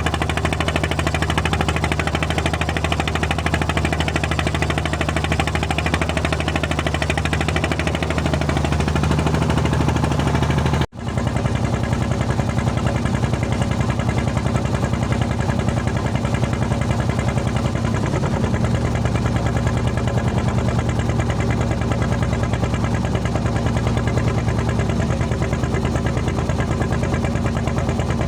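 Small propeller plane's engine and propeller running steadily, heard as a loud, even drone inside the cabin. The sound breaks off for an instant about eleven seconds in and comes back with a slightly changed tone.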